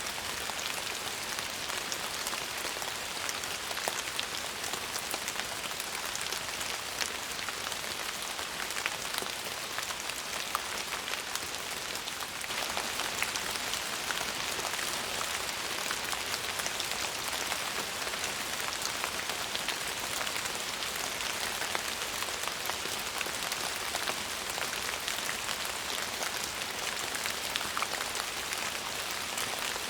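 Steady rain: a dense, even hiss with many individual drops ticking through it.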